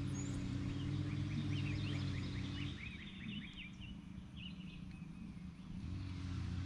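A bird calling a quick run of short, high chirps, about five a second, starting about a second in and lasting a couple of seconds, over a steady low drone that fades out about three seconds in and returns near the end.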